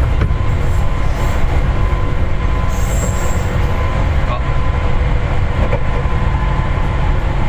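Seibu 4000 series electric train running between stations, heard inside the passenger car: a steady low rumble with a thin constant tone, and a brief high wheel squeal about three seconds in.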